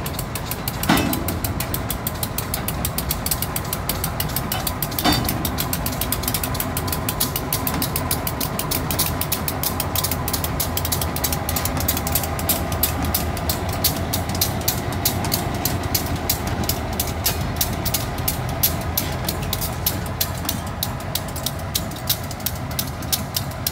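A slow train of boxcars shoved by two EMD GP15-1 diesel locomotives rolling past, the diesel engines running under a fast, even ticking. Two sharper clanks come about one and five seconds in.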